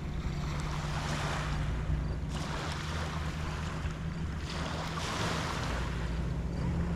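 Small waves washing onto a shell beach, surging and falling back about every two seconds, with wind on the microphone. A steady low hum runs underneath.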